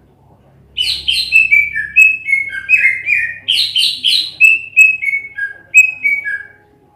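Green leafbird (cucak ijo) singing a loud run of clear whistled notes, many slurring downward, starting under a second in and lasting about six seconds.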